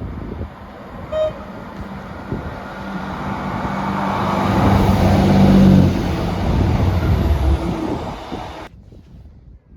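Diesel train passing, its engine drone building to a peak and then easing away, with a brief high toot about a second in. The sound cuts off suddenly near the end.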